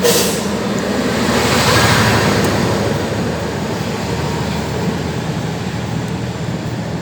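Motor vehicle noise: a steady engine hum, with a short hiss at the start and a vehicle passing that swells and fades over the first few seconds.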